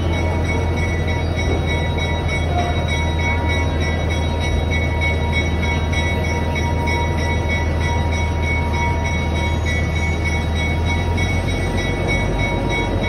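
A train riding along the rails behind a locomotive: a steady low drone of the engine and the rolling cars, with a constant high whine over it.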